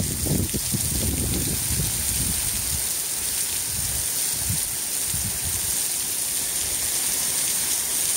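Heavy rain falling steadily, an even hiss of downpour on the road and pavement, with some low rumbling in the first couple of seconds.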